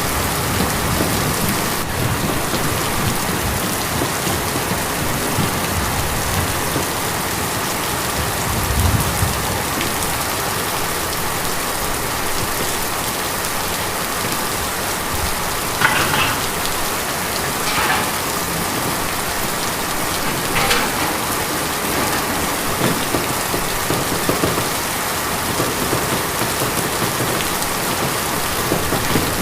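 Steady rain falling on tin, an even hiss of drops with a few louder, sharper drops in the second half and a brief low rumble about nine seconds in.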